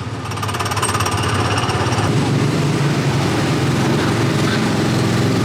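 Small gasoline engine of a go-kart-style ride car running on the throttle, a steady rattling drone that picks up during the first second.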